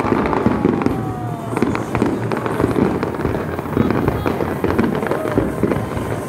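Fireworks display: many shells bursting at once in a dense, continuous barrage of crackling and popping.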